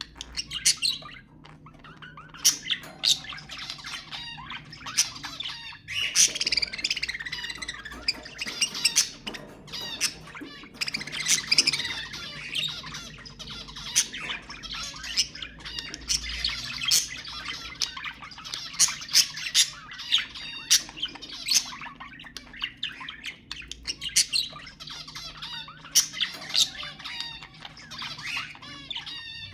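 Budgerigars chattering and warbling: a busy, unbroken mix of chirps, squawks and sharp clicks.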